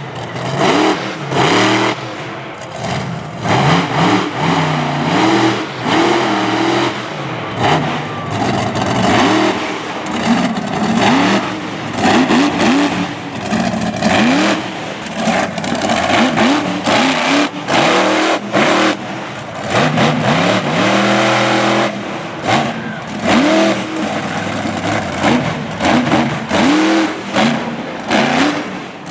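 Monster truck engine revving hard again and again, its pitch climbing and dropping with each throttle stab.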